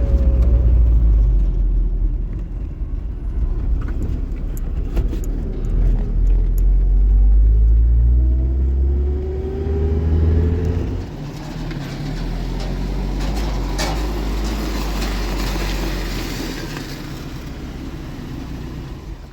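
A car running on the move: a steady low engine and road rumble, with the engine note rising about eight seconds in and the level dropping at about eleven seconds, as with easing off or changing gear.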